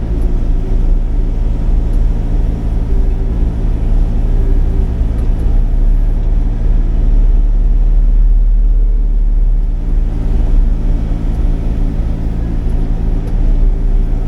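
Sany 35 mini excavator's diesel engine running steadily, a loud, even low drone.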